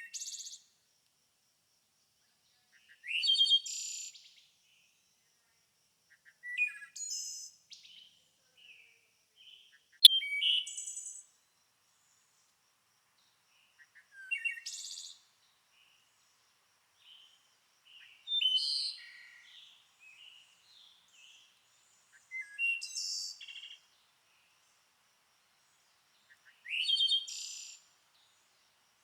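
A songbird singing short, high phrases about every four seconds, each a quick rising note running into a buzzy trill, with silence between. One sharp click comes about ten seconds in.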